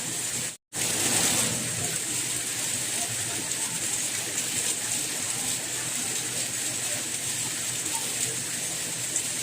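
Steady rain, an even hiss, broken once by a brief silent gap about half a second in.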